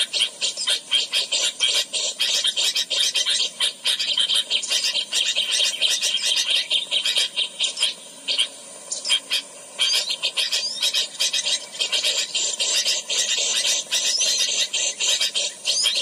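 A bird chattering continuously in fast, harsh, scratchy notes, thinning out briefly about halfway through.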